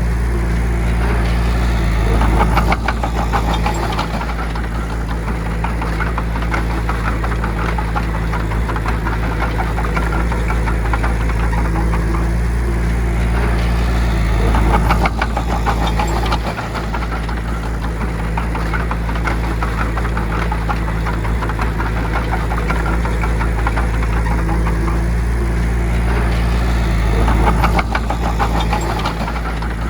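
Bulldozer's diesel engine running steadily under load. It swells louder three times, about twelve seconds apart.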